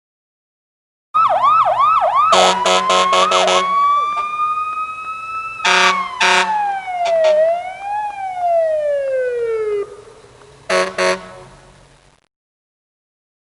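Emergency-vehicle siren sound effect: a fast yelping wail, then a long tone that rises, falls, rises briefly and slides down as it dies away, with short horn blasts breaking in three times.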